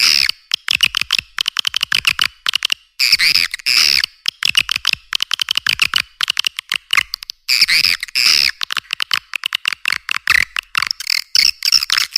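Swiftlet call recording of the kind played to lure swiftlets into a bird house: rapid trains of sharp clicking chirps, broken by longer twittering calls at the start, about three seconds in and about eight seconds in. It sounds thin, with no low end.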